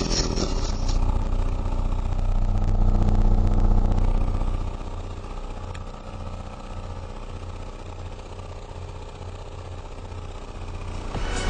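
15-inch Lanzar MSXWQD15 subwoofer playing free-air, pushing deep bass from a hip-hop track with a buzzy, engine-like edge. After about five seconds it gets softer and the bass settles into a regular pulse.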